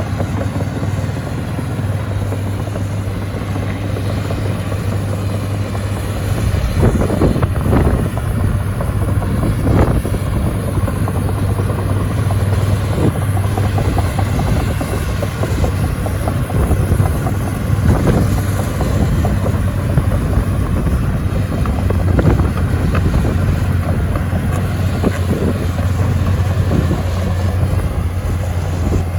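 SANY SY215C crawler excavator's diesel engine running steadily, getting louder about six seconds in as it works, with occasional knocks from the machine.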